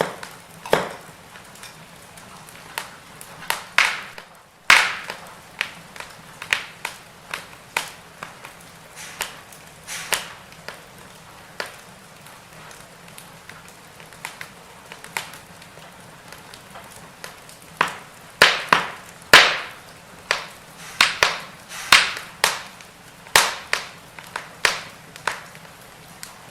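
Firewood burning, crackling with irregular sharp pops and snaps over a faint hiss. The pops come thicker and louder in the second half.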